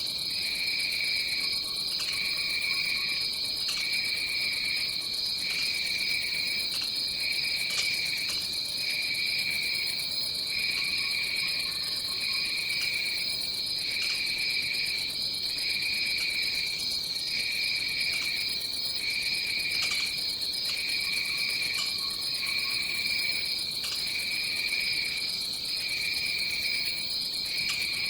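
Rainforest insect chorus: one continuous high, even trill, with a second, lower insect chorus pulsing on and off about once every second and a bit. A few faint short calls sound now and then underneath.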